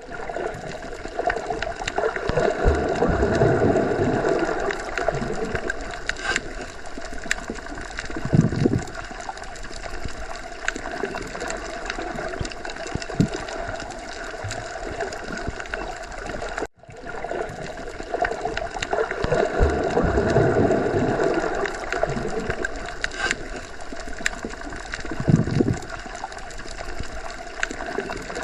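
Underwater sea ambience: a continuous wash of moving water rising and falling in slow swells, with a short, stronger low surge twice. A brief cut-out about seventeen seconds in marks a loop point, after which the same pattern repeats.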